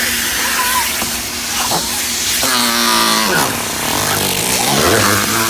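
Automatic car wash running over the vehicle, heard from inside the car: a loud, steady rush of water spray and machinery. Near the middle comes a drawn-out vocal sound that falls in pitch.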